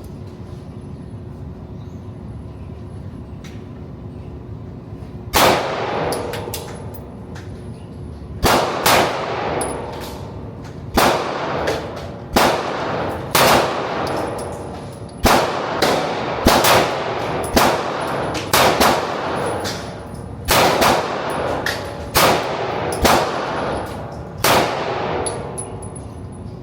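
Gunshots at a shooting range: after a few quiet seconds, more than a dozen single shots fired about a second apart at an uneven pace, each ringing out with a long echo.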